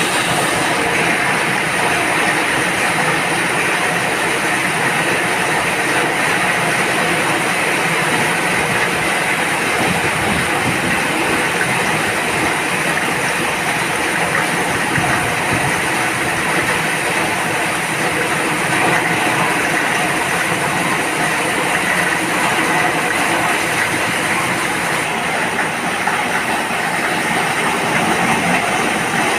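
Rain falling steadily, an even hiss without a break.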